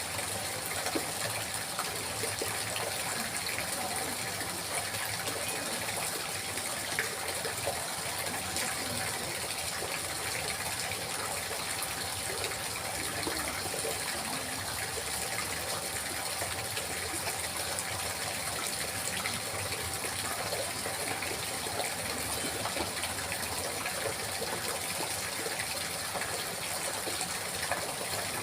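Steady babbling of flowing water, an even rush of small splashes with no pauses.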